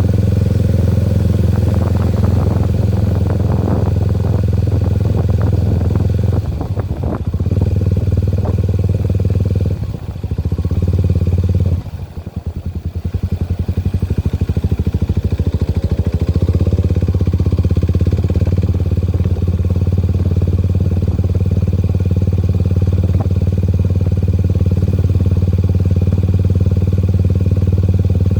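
Motorcycle engine running steadily while riding. The engine note drops off briefly about seven and ten seconds in, falls away most around twelve seconds in, then builds back up.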